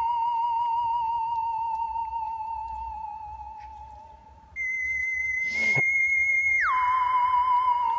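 Eerie theremin-like electronic tone with a wavering pitch, added as suspense music. It fades away about four seconds in, comes back at a higher pitch, holds, then slides down near the end, with a single sharp knock just before the slide.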